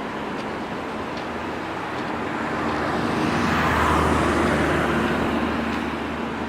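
A vehicle passes by: a rushing sound that swells to its loudest about four seconds in, then fades.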